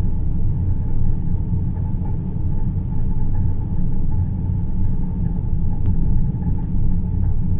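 Synthesized 'deep space' ambient noise: a steady, deep rumble with a faint, even hum higher up, unchanging throughout.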